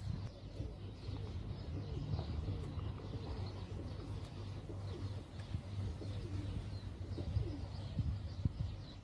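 Birds chirping and calling, many short wavering calls over a steady low hum.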